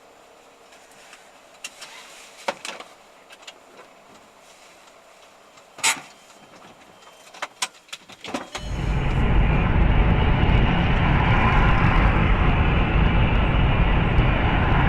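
A few sharp clicks and knocks, then, starting abruptly about two-thirds of the way in, a loud steady rush of car road and engine noise.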